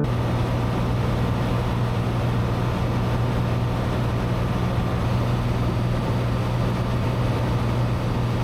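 Cessna 182 Skylane's six-cylinder engine and propeller droning steadily in flight, heard inside the cabin: a constant low hum under an even rushing hiss.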